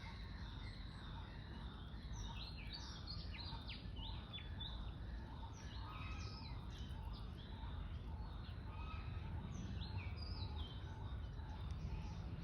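Many small birds chirping and calling over one another, with quick up-and-down whistled notes throughout, over a steady low rumble.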